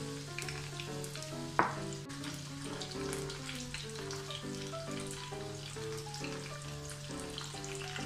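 Cornflour-coated sweet corn kernels shallow-frying in hot oil in a kadai, a steady sizzle with scattered small crackling pops. Soft background music of short notes plays alongside, with a brief rising swoosh about a second and a half in.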